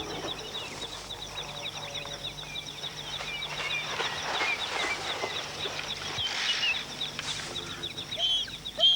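Wild birds chirping and calling, with short rising and falling chirps, and a fast pulsing high note in the first few seconds.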